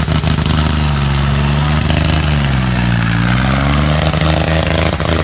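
Preet tractor's diesel engine running hard at high revs. Its pitch sags about two and a half seconds in as it comes under load, recovers, and starts to dip again near the end.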